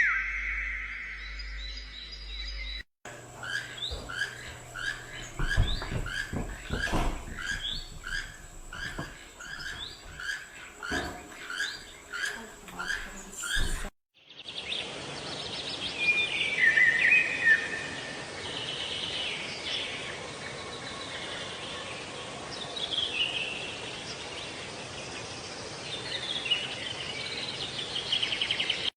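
Songbirds calling in separate clips: first one bird repeating a short rising-and-falling note about one and a half times a second, with a few knocks, then varied chirping and twittering over a steady hiss.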